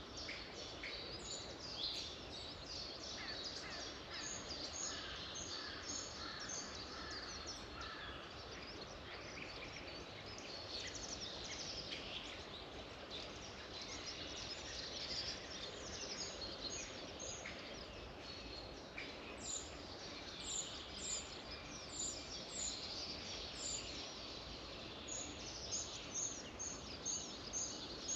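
Several songbirds singing together over a steady background hiss, a dense mix of chirps and warbles. In the second half, one bird repeats a series of short, high notes at about two a second.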